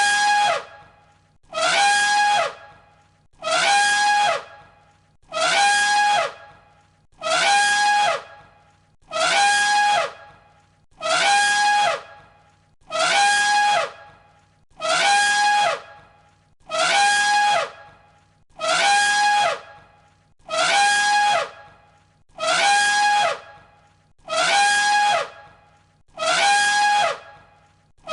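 Elephant trumpeting: the same short, brassy call looped over and over, one about every two seconds, each ending with a falling pitch.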